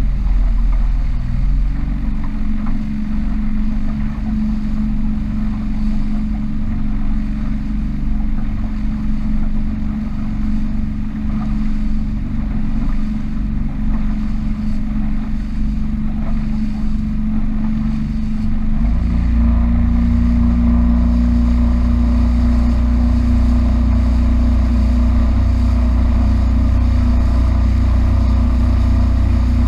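Small powerboat's engine running steadily under way. About two-thirds of the way through, the engine note steps slightly higher and a heavy, steady low rumble comes in.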